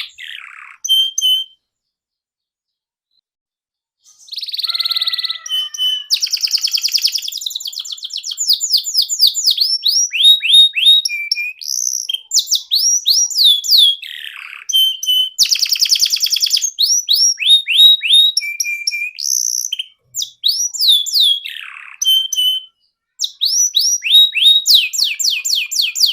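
Domestic canary singing: fast trills of rapidly repeated notes and runs of quick downward-sweeping whistles. There is a silent gap of about two seconds near the start.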